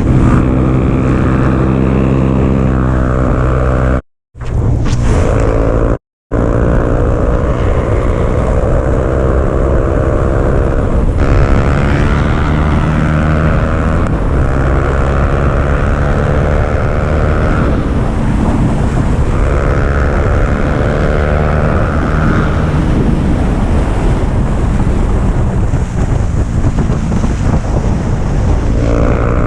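Motorcycle engine revving hard, its pitch climbing through each gear and dropping back at each upshift, with wind noise on the microphone. The sound cuts out completely twice, briefly, a few seconds in.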